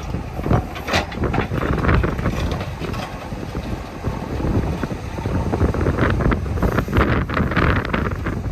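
JCB 3DX backhoe loader's diesel engine running as the machine works, a continuous low rumble with irregular gusts of wind buffeting the microphone.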